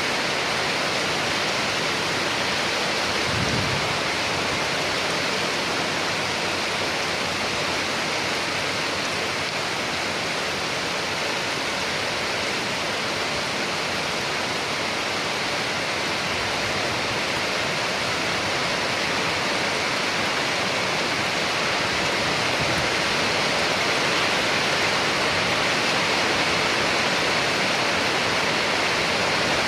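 Steady heavy rain: a dense, even hiss of falling water with no break.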